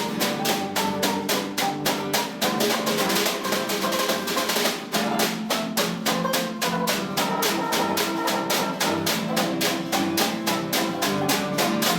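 Music with a drum kit keeping a steady, fast beat, about five strokes a second, over held notes from pitched instruments.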